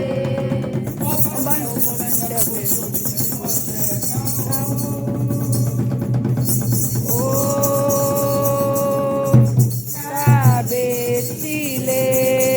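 Devotional singing in a Candomblé song for Xangô: voices hold long notes over a rattle shaken fast and continuously, which starts about a second in and breaks off briefly twice.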